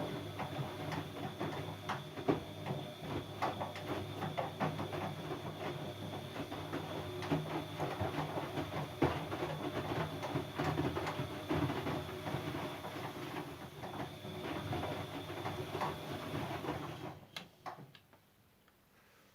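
Siemens Siwamat C10 washing machine running its drum motor: a steady whine with dense, irregular clicking and rattling. It stops suddenly about seventeen seconds in.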